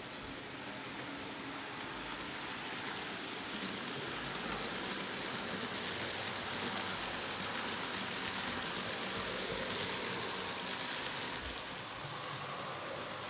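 N scale model train, an Athearn F59PHI locomotive pulling Bombardier coaches, rolling along the track: a steady hiss of wheels on rail and motor that grows louder over the first several seconds and eases off a little near the end.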